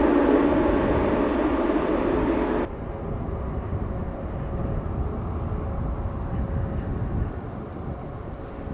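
Jet airliner engines of an Airbus A330-900neo (Rolls-Royce Trent 7000s) running loud with a steady hum in the noise. About three seconds in this cuts off abruptly to a quieter low rumble with a faint steady tone.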